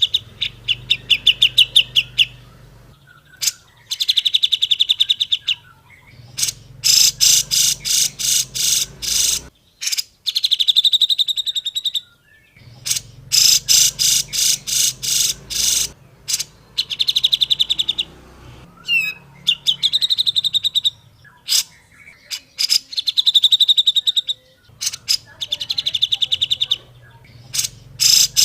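Grey-cheeked bulbul (cucak jenggot) singing: repeated bursts of very fast, harsh chattering notes, each lasting one to three seconds, with short pauses between them.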